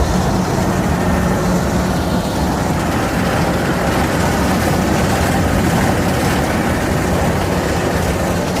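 Engine of a rice harvester running steadily with a low hum.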